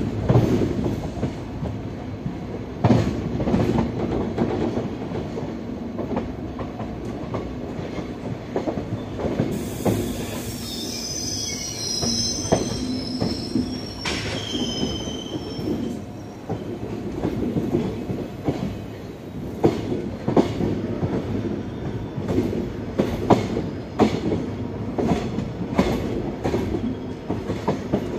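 Passenger train rolling slowly over the tracks, heard from the open coach door: a steady low rumble with irregular wheel knocks over rail joints and points, and a high-pitched wheel squeal for a few seconds in the middle.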